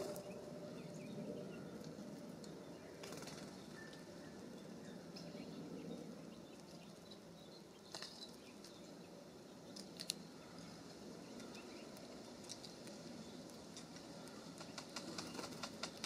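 A small songbird's wings fluttering briefly at the start as it flies in at a wire-cage seed-block feeder, then sparse light taps and clicks of birds perching and pecking at the feeders, with a quick run of ticks near the end. A low steady rush of breeze runs underneath.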